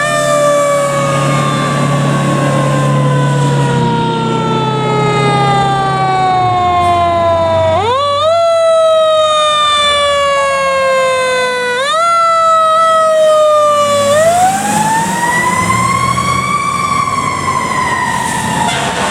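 Fire truck siren sounding: a long slow falling glide, two quick spin-ups about eight and twelve seconds in that each sag again, then one slow rise and fall near the end. A heavy truck engine runs underneath.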